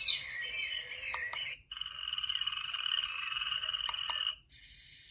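Recorded nature sounds from a portable white noise machine's built-in speaker. Birdsong plays for the first second and a half. After a short break comes a steady croaking frog chorus, and near the end, after another break, a steady high insect trill like crickets.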